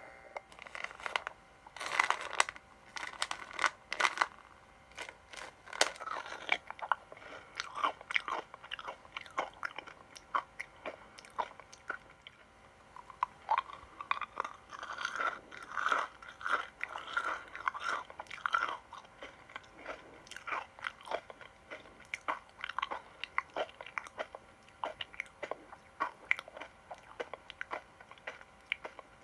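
A crunchy sweet being bitten and chewed: a long run of sharp, crisp crackles, thickest about halfway through.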